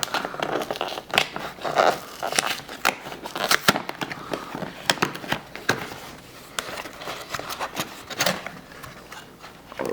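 Shipping package being opened and handled: crackling, rustling packaging with irregular clicks and scrapes, busier at first and thinning out in the second half.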